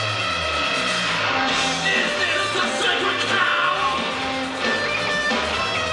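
A rock band playing loud and continuously on stage: electric guitar, bass and drums, with a voice singing or shouting over them.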